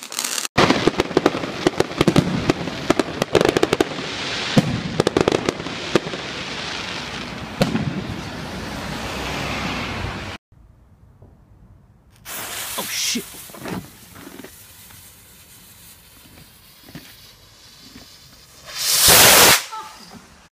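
Fireworks crackling and banging in rapid, dense succession for about ten seconds. After a break come quieter scattered pops, then a brief loud rush of noise near the end.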